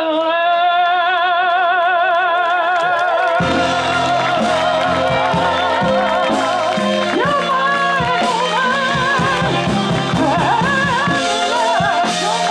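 Live Latin band music: a long held note with a wide vibrato, then the full band with bass comes in about three and a half seconds in.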